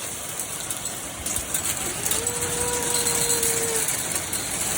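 Hailstones pelting down on hard surfaces: a dense, steady clatter of many small hits. A single steady tone is held for almost two seconds in the middle.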